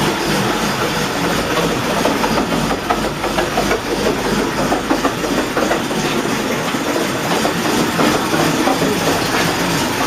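1961 Buick LeSabre's 364 Nailhead V8 running steadily at fast idle on the choke shortly after a cold start, its exhaust a continuous rapid pulsing.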